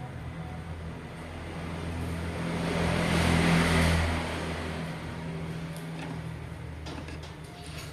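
A motor vehicle passing by: a rush of noise that swells to a peak about three and a half seconds in and then fades, over a steady low hum.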